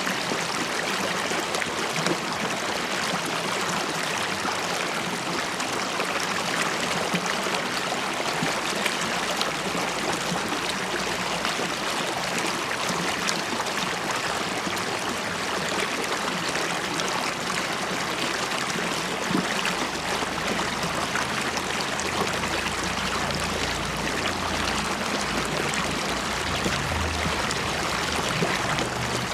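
River water flowing and bubbling in a steady, even rush. A faint low hum joins in during the second half.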